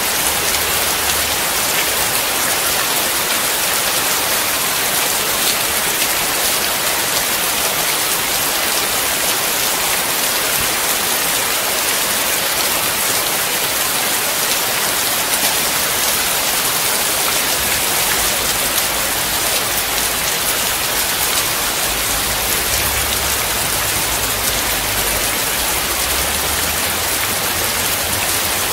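Steady rain falling on a wet surface: an even, unbroken hiss of many drops.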